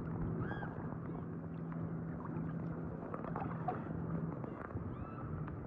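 Light rain falling on open water, an even hiss with scattered faint drip ticks. A steady low hum runs underneath and drops out a little after four seconds in.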